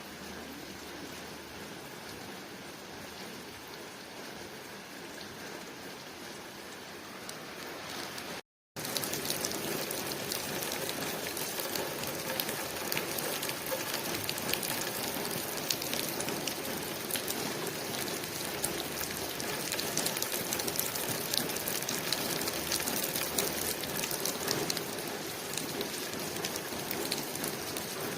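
Rain falling on a window pane, a steady patter of drops. About eight seconds in it cuts out for a split second, then comes back louder and denser, with many distinct drop ticks.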